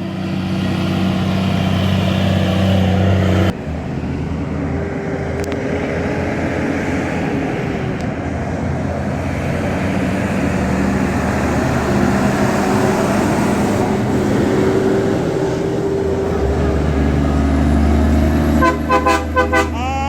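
A motor vehicle driving with steady engine hum and road noise, then a quick series of short horn toots near the end.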